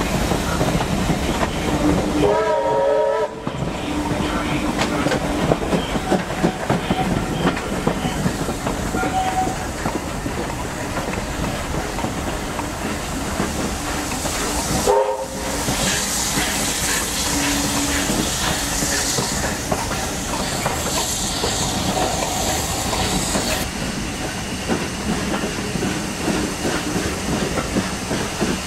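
Passenger carriages of a steam-hauled train running along the line, with the steady rumble of the wheels and clickety-clack over the rail joints heard from an open window. Short pitched tones sound about two seconds in and again around fifteen seconds.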